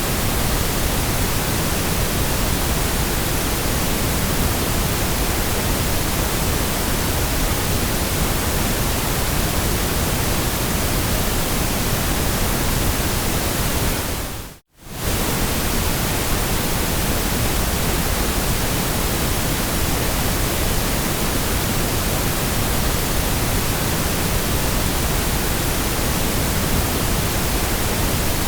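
Steady white noise, an even hiss spread from low rumble to high hiss. About halfway through it fades out for a split second and comes straight back.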